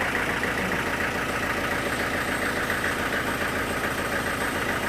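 Sawmill engine running steadily at a constant speed with a fast, even pulse.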